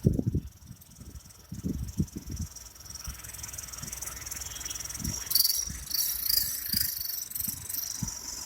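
High-pitched whistling from an exhaust-mounted turbo whistle on a running vehicle, growing louder and pulsing from about five seconds in. A few low thumps come in the first couple of seconds.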